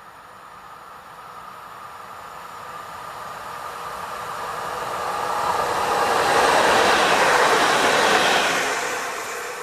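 Pesa Elf 2 electric multiple unit passing on the track: its running noise grows steadily as it approaches, is loudest as it goes by about six to eight seconds in, then fades away.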